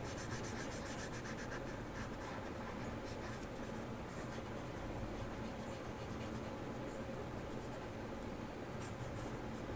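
A colouring tool scratching back and forth on paper in quick, even strokes as a drawing is shaded in yellow. A steady low hum runs underneath.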